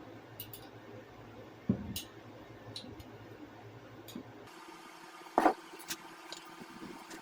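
Scattered light clicks and knocks of kitchen containers being handled, with a dull thump about two seconds in and a sharper knock about halfway through.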